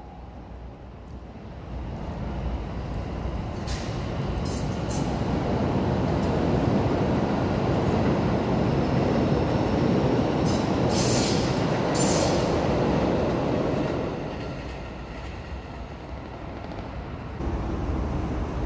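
Red Keikyu electric train passing on the tracks: its rumble builds over a few seconds, holds for several seconds, then fades. Brief high wheel squeals come twice along the way.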